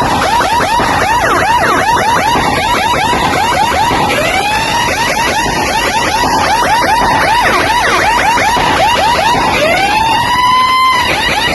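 Siren sound effect played very loud through DJ sound-system speaker stacks: rapid rising whoops, about four a second, with a longer rising sweep about four seconds in and another near the end, over a heavy wash of noise.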